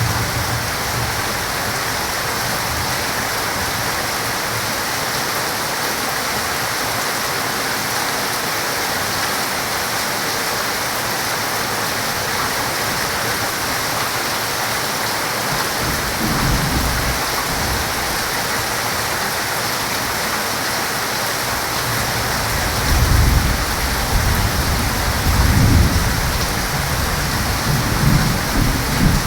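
Heavy rain falling steadily, with thunder rumbling in low swells from about halfway through and growing stronger toward the end.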